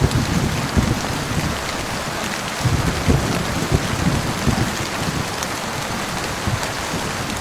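Heavy rain falling steadily, with low rumbles of thunder in the first second and again around three seconds in.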